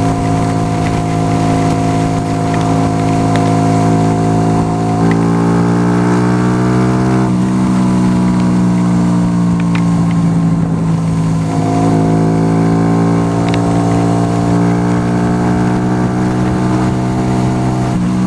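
Yamaha YBR 125 motorcycle engine under way, a single-cylinder four-stroke, running at a steady pitch, then rising as the bike accelerates about five seconds in. Its note breaks off and drops about seven seconds in, like a gear change, and shifts again near the twelve-second mark.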